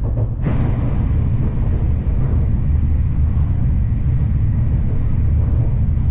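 Tokaido Shinkansen Nozomi train running at high speed, heard inside the passenger car as a steady, loud low rumble and rush of wheels and air. The sound jumps abruptly louder about half a second in.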